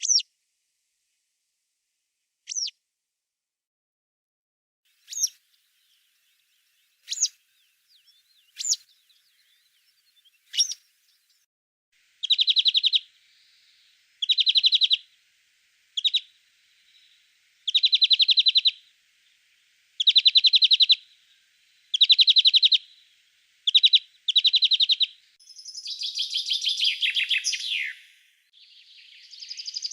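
Wild songbirds singing in a spring forest. Single sharp, falling call notes come about every two seconds; from about halfway in, a rapid trill of about a second repeats every couple of seconds; near the end a longer, more tangled song joins in.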